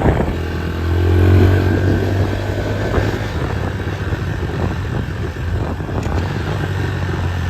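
2015 Honda CRF110's small single-cylinder four-stroke engine running during a test ride, sounding healthy ('mint'), with a swell in engine sound about a second in.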